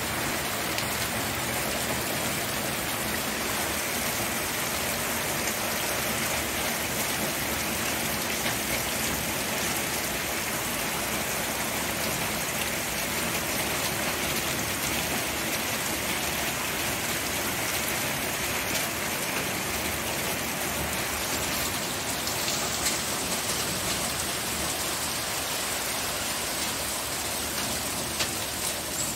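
Steady rain falling, a dense even patter of drops with now and then a slightly louder drip.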